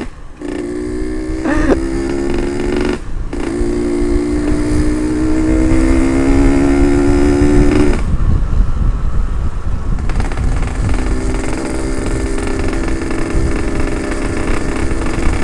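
Ported Yamaha RX-King 135cc two-stroke single-cylinder engine under way, with short breaks in the exhaust note at gear changes about half a second and three seconds in. The revs climb steadily for several seconds, ease off about eight seconds in, then hold fairly steady from about eleven seconds. Wind rumbles on the helmet-mounted microphone.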